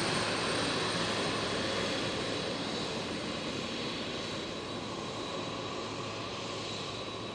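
Jet airliner engines, a steady rushing that slowly fades as the aircraft moves away.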